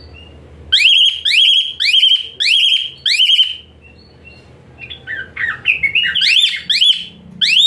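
Jalak suren (pied starling) singing: a rapid run of shrill, high-pitched rising notes, a pause of about a second and a half, then another quick run of rising notes near the end.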